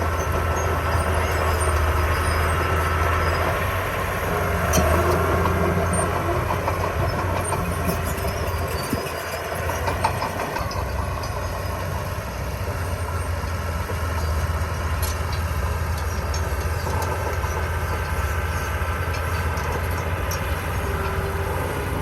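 Diesel engine of a small Komatsu D20P crawler bulldozer running steadily, with scattered metallic clanks and clicks from the machine at work.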